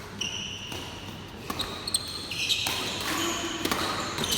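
Badminton rally: shoes squeaking on the court floor, with sharp racket strikes on the shuttlecock, three of them, about one and a half, two and three and a half seconds in.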